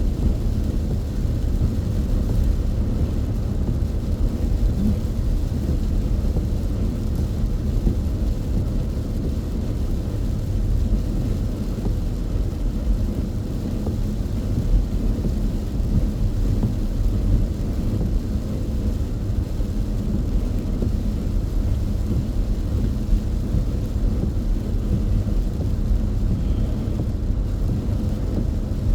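Steady low rumble of a car cruising on an expressway, its road and engine noise heard from inside the cabin.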